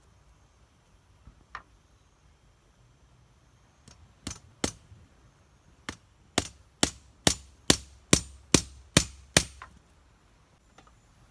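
Sharp strikes on wood, a few single blows and then a steady run of about eight, roughly two a second, as in chopping or hammering while building a wooden shelter frame.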